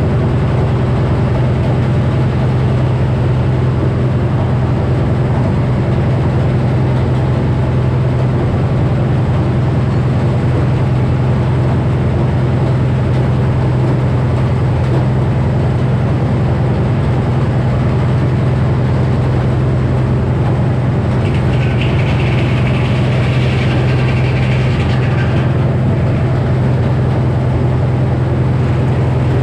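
Frick sawmill with a 48-inch circular saw running under power, a loud steady drone with a constant low hum. A brighter, hissier sound rises for about four seconds past the middle.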